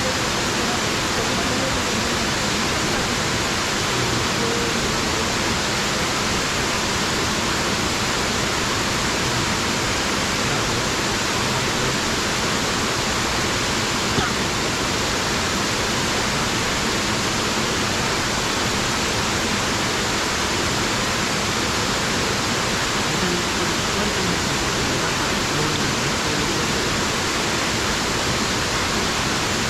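Small natural waterfall pouring into a rock pool: a steady, even rush of falling water.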